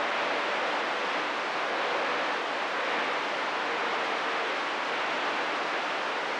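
Steady hiss of CB radio static on an idle channel between transmissions.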